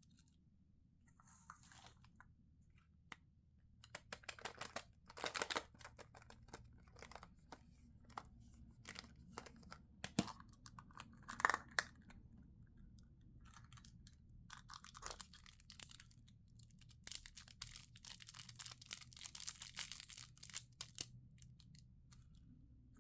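Plastic candy wrapping being crinkled and torn open by hand: quiet at first, then a run of sharp crackles and rustles, with louder tearing about five seconds in and again near the middle.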